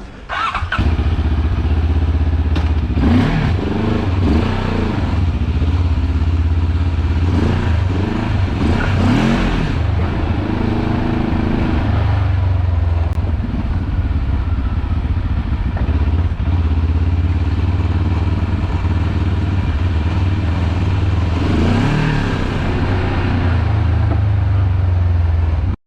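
Benelli TRK700X's 693cc water-cooled two-cylinder engine running with a steady low drone. The revs rise and fall several times, around three seconds in, around eight to ten seconds in and again near twenty-two seconds.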